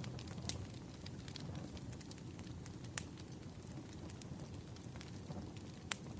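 Wood fire crackling, with three louder sharp pops among many small ticks, over a steady low rumble.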